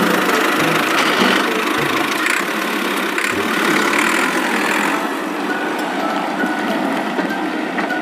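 An engine running steadily, easing off a little about five seconds in.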